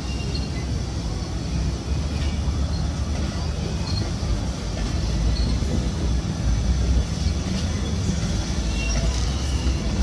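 Passenger coaches of a train rolling past, a steady low rumble of wheels on the rails with faint clicks and a few brief high squeaks.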